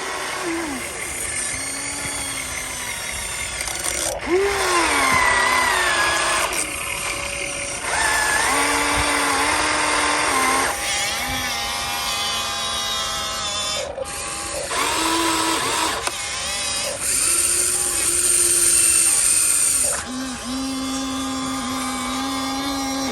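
Electric motors of a radio-controlled model excavator whining as its functions are worked, the pitch sliding up and down and the whine starting and stopping every second or few.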